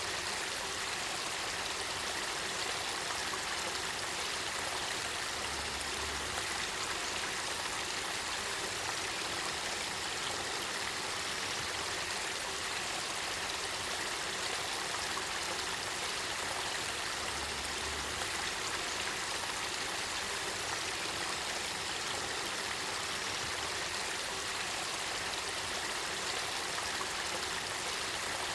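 Spring-fed stream water flowing with a steady, even rush that does not change.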